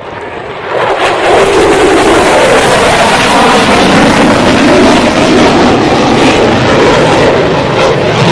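Aircraft engine roar as a plane flies low past, rising about a second in and staying very loud before starting to fade near the end.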